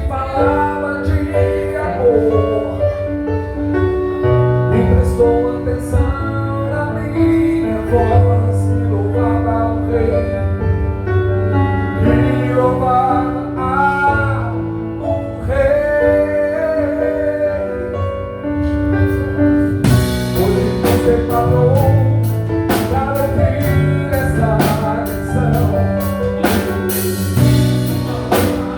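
A live band playing a song with singing. About two-thirds of the way in, the drums come in with a steady beat of cymbal hits.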